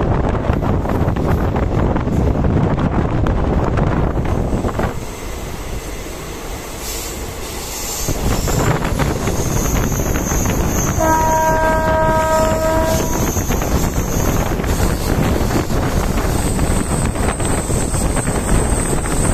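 Sabarmati–Mahesana DMU (diesel multiple unit) train running on the rails, heard from aboard as a steady loud rumble with wheel clatter. About eleven seconds in, a train horn sounds one blast of about two seconds.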